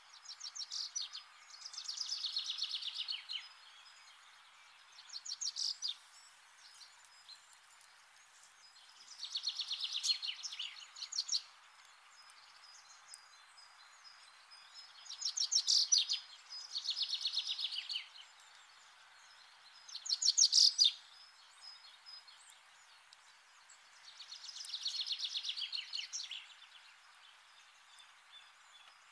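Bird song: a rapid, high-pitched trill lasting one to two seconds, repeated every few seconds over a faint hiss.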